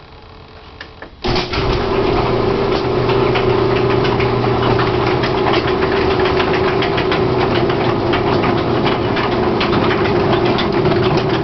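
Electric garage door opener starting up about a second in and raising the door: a steady motor hum with a dense, rapid clatter, running smoothly and stopping right at the end. On the way up the door runs smoothly, without the shaking it shows going down.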